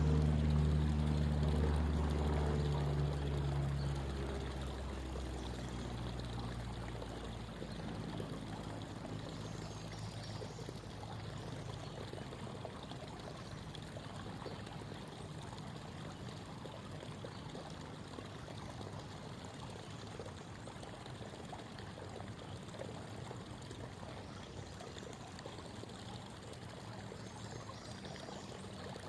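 Creek water babbling and trickling steadily over stones. A low engine drone is loudest at the start and fades away over the first six or seven seconds.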